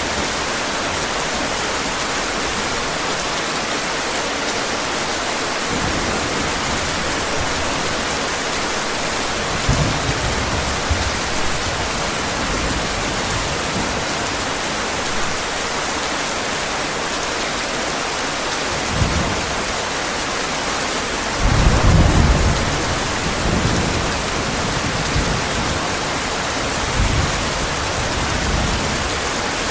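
Steady heavy rain with rolls of thunder on top: low rumbles about a third of the way in and again past halfway, the loudest one a little later, then a fainter one near the end.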